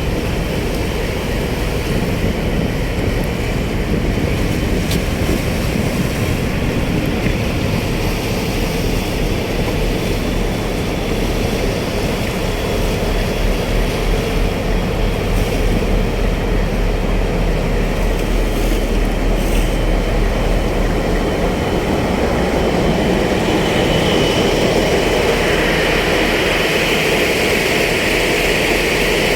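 Heavy marine diesel engine running steadily, a low throbbing hum with a hiss that grows louder near the end.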